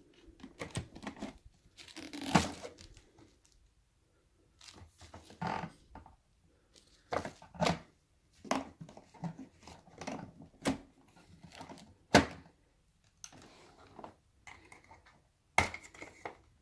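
Handling noises: irregular clicks, knocks and rustling, with no motor running. Sharp knocks stand out about two seconds in, about twelve seconds in, and near the end.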